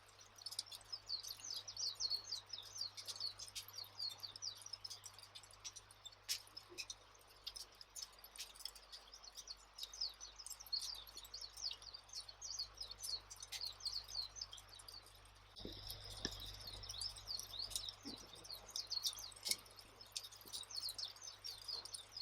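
Dense, continuous high chirping of small birds in a campfire ambience track, with a few sharp crackling pops from the fire.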